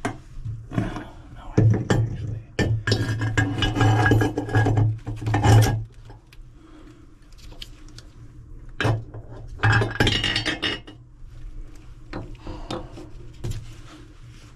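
Metal clinking and clattering in irregular bursts as sink faucet parts are handled and worked into place, with quieter handling noise between.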